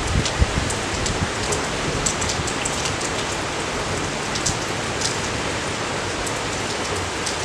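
Steady rain falling, an even hiss with scattered sharp drop ticks throughout and a few heavier low thuds in the first second.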